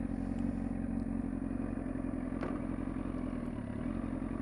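Motorcycle engine running at a steady, even pitch, with no revving. There is one faint click about halfway through.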